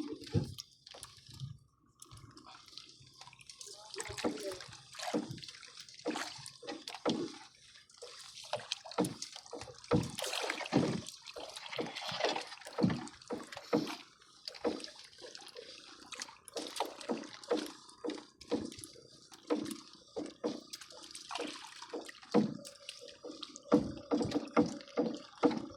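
Sea water splashing and sloshing against a small fishing boat in short, irregular bursts, louder for a few seconds near the middle.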